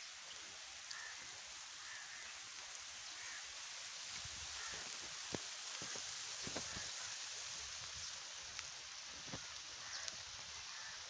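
Light rain falling, an even hiss with scattered drops ticking on surfaces.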